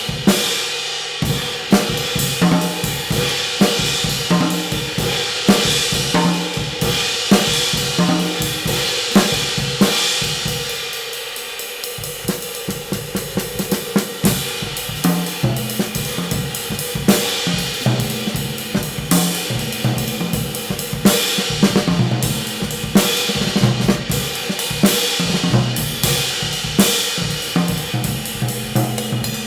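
A drum kit played in a steady groove to demo a hand-made 20-inch B20 bronze trash light crash cymbal. The cymbal's wash rings over regular snare and bass drum hits, with a brief quieter passage about eleven seconds in.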